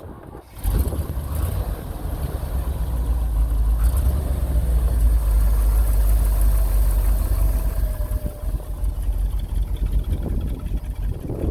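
C50 grain truck's engine running with a steady low rumble, coming in suddenly about a second in.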